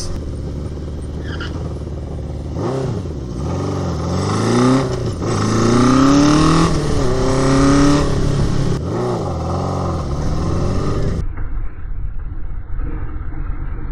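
1981 Honda CB750's inline-four engine under way, accelerating through the gears: the pitch climbs and drops back at each shift, three or four times, then holds steadier near the end. The rider suspects it is not running on all cylinders, or is lagging on one, and thinks the carburetors need cleaning.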